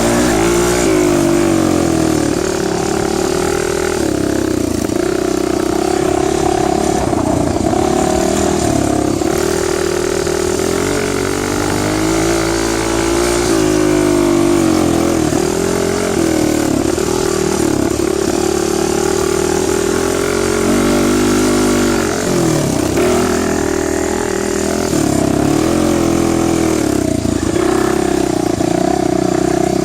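Dirt bike engine running under way, its revs rising and falling with the throttle, with brief drops in pitch near the end as it shifts or eases off.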